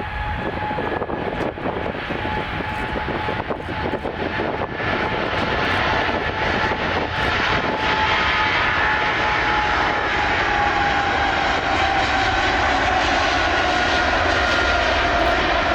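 Airliner's engines running as the aircraft passes on the runway, growing louder about six seconds in. A steady roar carries two high whining tones that drop slowly in pitch over the second half.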